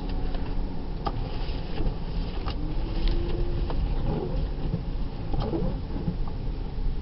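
Car cabin noise while driving: a steady low road-and-engine rumble, with a few scattered light clicks and knocks.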